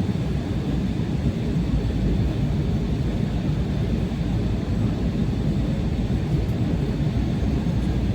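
Steady low rumble of an airplane in flight, heard inside the passenger cabin: engine and airflow noise at a constant level.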